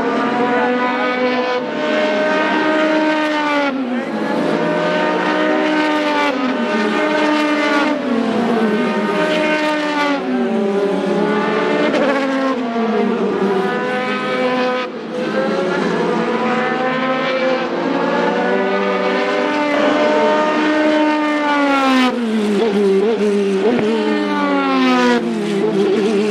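Sports racing cars passing at speed one after another, their engine notes rising and then falling in pitch about every two seconds.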